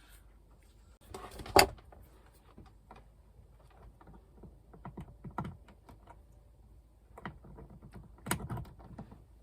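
A series of light clicks and knocks from things being handled. There is one louder knock about a second and a half in and a denser cluster of clicks near the end.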